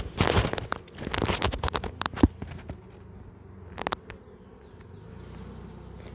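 Honeybees buzzing around an open hive, a steady low hum. Crackling handling noise with a few sharp clicks fills the first two seconds, and there is another sharp click just before four seconds.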